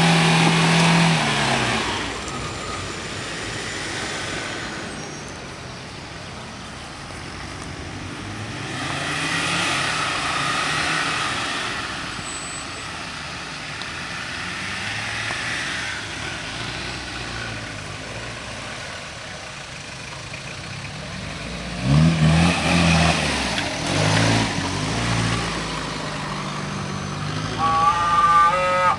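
Off-road 4x4 engines running as the vehicles crawl and climb through mud, the revs surging louder several times, most strongly right at the start and again about three quarters of the way through.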